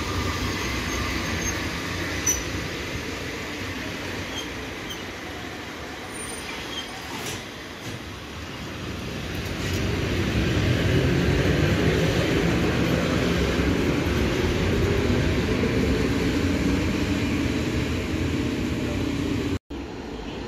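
Passenger train hauled by an EP07 electric locomotive rolling slowly past during shunting: a steady rumble of wheels on rail that grows louder about halfway through.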